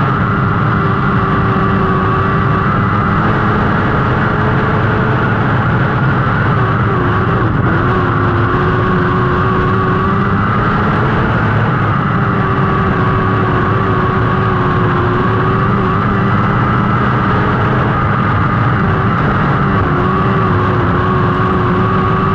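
Lightning sprint race cars running hard on track, engines at high revs. The engine note is steady and loud and dips and rises slightly every few seconds as the throttle comes off and on.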